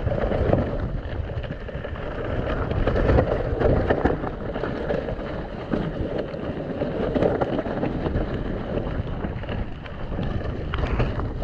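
Mountain bike ridden fast down a wet, muddy trail, heard from a rider-mounted camera: wind rushing over the microphone, with a steady run of knocks and rattles from the bike and tyres over the rough ground.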